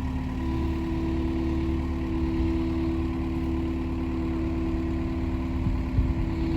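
Engine idling steadily with a low rumble. About half a second in, a steady hum joins it and holds, with a few knocks near the end.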